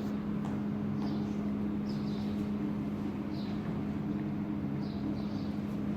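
A steady low mechanical hum, with short high chirps of small birds every second or so.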